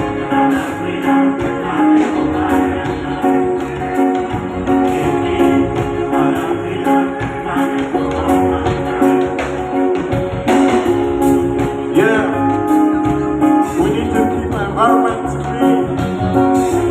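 Live band music with guitar and a steady percussion beat, a voice singing in places over it.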